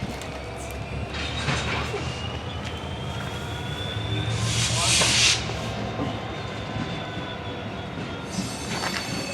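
Train passing with its wheels squealing on the rails in thin, high, slowly wavering tones over a low rumble. A loud burst of hiss comes about four and a half seconds in.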